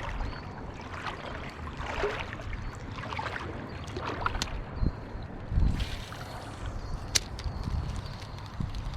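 Shallow creek water sloshing and trickling around someone wading over a rocky bottom, with a few dull knocks and a sharp click about seven seconds in.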